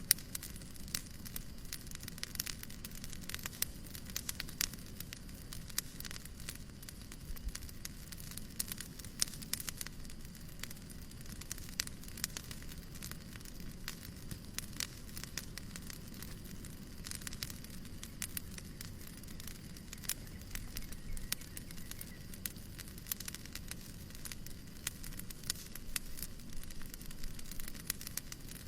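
Wood fire crackling in a fireplace: frequent irregular pops and snaps over a steady hiss of white noise.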